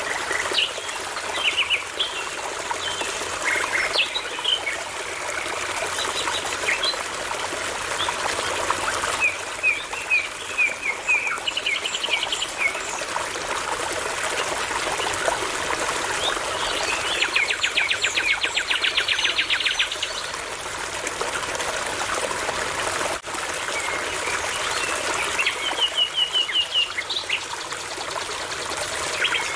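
A babbling brook trickling steadily while songbirds sing over it in short runs of repeated notes, with a fast, rattling trill a little past halfway that lasts about three seconds.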